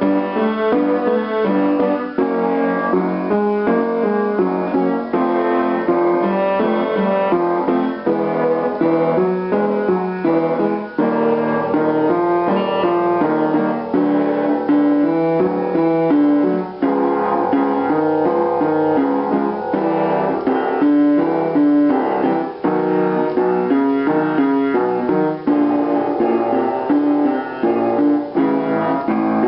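Piano accompaniment for a vocal warm-up, playing short repeated patterns of notes and chords that shift step by step.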